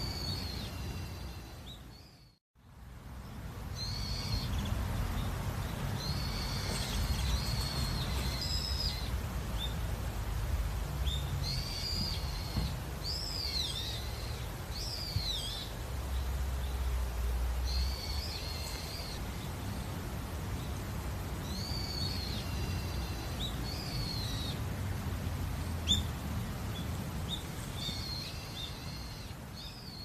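Birds calling in short groups of high chirping notes, a few seconds apart, over a low steady rumble. The sound cuts out briefly about two seconds in and fades away near the end.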